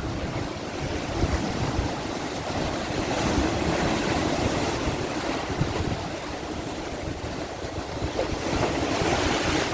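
Sea waves washing onto a rocky shore: a steady surf that swells louder twice, with wind rumbling on the microphone.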